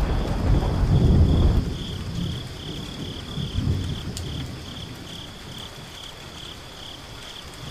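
Thunderstorm sound effect: a low rumble of thunder that dies away about a second and a half in, with weaker rumbles after, over a faint hiss of rain and crickets chirping steadily about twice a second.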